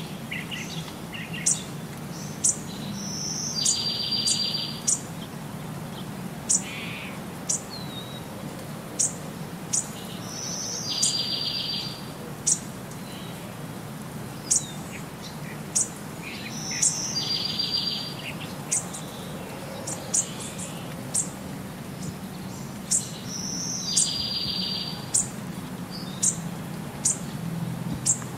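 Birdsong: short, high, sharp chirps about once a second, with a longer buzzy trill every six to seven seconds in a repeating pattern, over a faint steady low hum.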